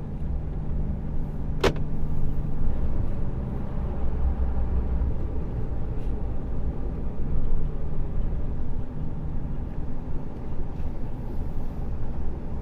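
Diesel engine of a fully loaded tractor-trailer truck running steadily as it drives slowly, a constant low drone. A single short sharp click is heard about two seconds in.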